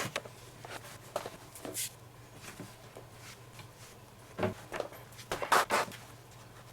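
Leather lace being threaded and pulled through a baseball glove: scattered short clicks and rustles of leather being handled, with a denser flurry about five and a half seconds in.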